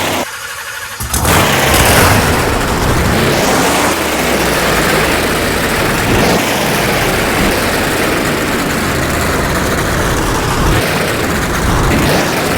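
Monster truck motor running and revving, steady and loud, with a brief drop in level about a second in before it comes back up.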